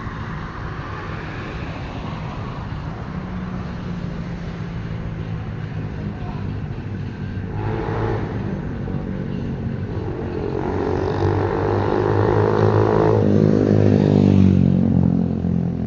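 A motor vehicle engine running, growing louder from about ten seconds in with its pitch shifting, then dropping back near the end.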